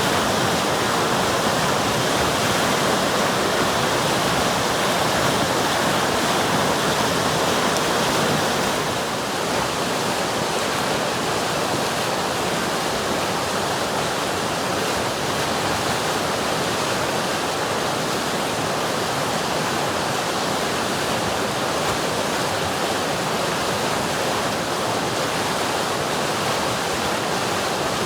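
River water rushing and flowing as a steady, even hiss, dipping slightly in loudness about nine seconds in.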